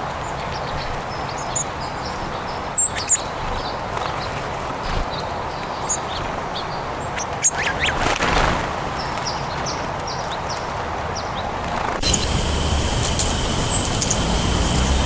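Birds calling: scattered short, high chirps over a steady outdoor background, with the background changing abruptly about twelve seconds in.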